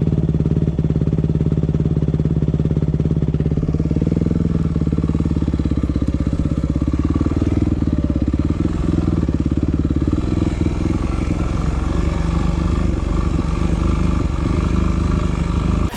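Yamaha WR250F's single-cylinder four-stroke engine running, its pitch shifting a little about four seconds in and again near ten seconds.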